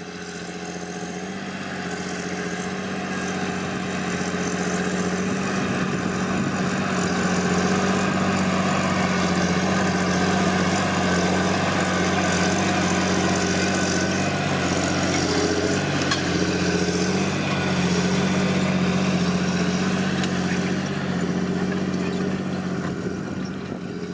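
John Deere 8520T tracked tractor's 8.1-litre PowerTech six-cylinder diesel running hard while pulling a four-furrow plough. It grows louder over the first several seconds, holds steady, and fades near the end.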